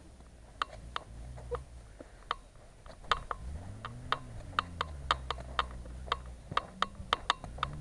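A distant car engine, its pitch rising and falling as it revs, with a swell a few seconds in. Many sharp, irregular light clicks, about two or three a second, sound over it.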